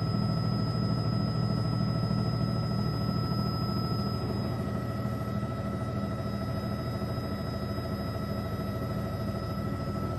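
Aircraft cabin noise from a circling news aircraft: a steady engine and rotor drone with several steady high whines over it.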